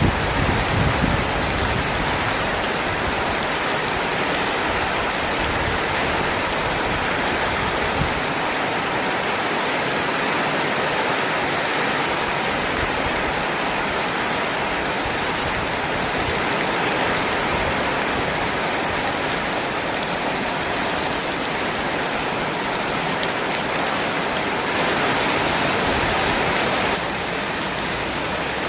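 Steady rain falling, an even hiss of many drops. A low rumble dies away in the first second, and the rain swells a little for a couple of seconds near the end.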